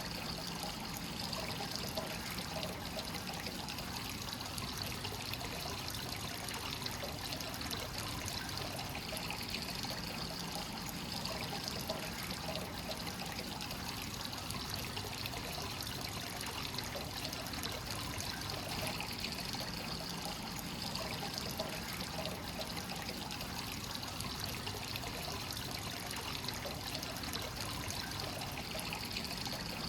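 Hot spring water flowing steadily into a rock-carved bath and splashing and trickling on the surface, the continuous inflow of a free-flowing onsen.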